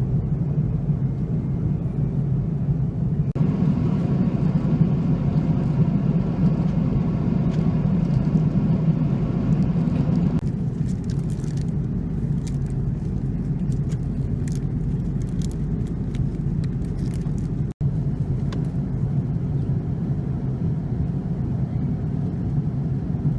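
Steady low rumble of an Airbus A330-300 airliner heard from inside the cabin, changing abruptly a few times, with scattered light clicks and rattles in the middle.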